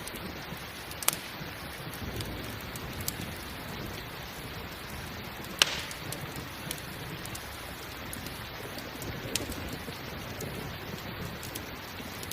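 Steady rain mixed with a wood fire crackling: a hiss of rain with a few sharp pops scattered through it, the loudest about five and a half seconds in.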